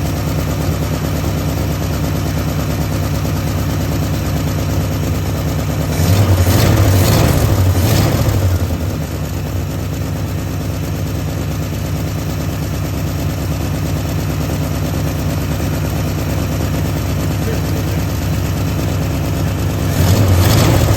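1973 Ford F100's V8 engine running at a steady idle on a fresh tune-up of new points, condenser, coil and plugs. It is revved up about six seconds in for a couple of seconds, settles back, and is revved again near the end.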